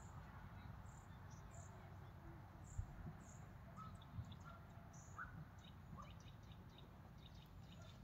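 Faint bird chirps: a few short high calls in the first half, then quick ticking notes, over a steady low rumble, with a single low thump about three seconds in.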